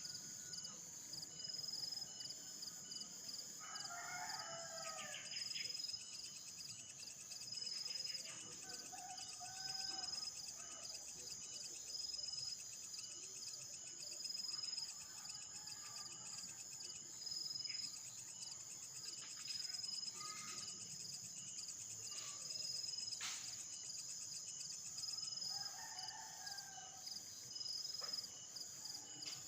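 A rooster crowing in the distance twice, about four seconds in and again near the end, over a steady high-pitched drone of insects.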